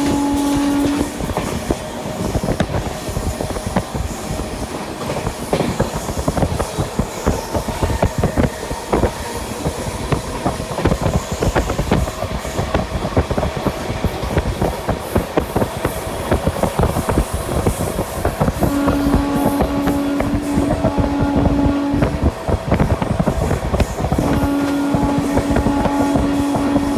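Express train running at speed: its wheels beat a rapid clickety-clack over the rail joints above a steady rumble. A steady horn blast sounds near the start, again from about 19 to 22 seconds in, and once more from about 24 seconds in.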